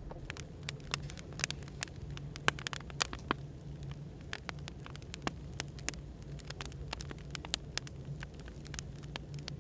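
Firewood burning, crackling with many irregular sharp pops over a steady low hum of background noise.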